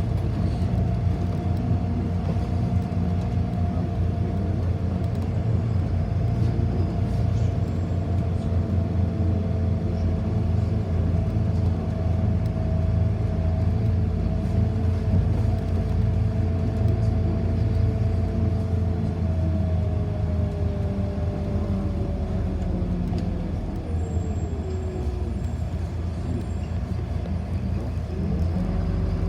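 Inside a city bus on the move: a steady low rumble of drivetrain and road, with a whine that falls in pitch about twenty seconds in as the bus slows.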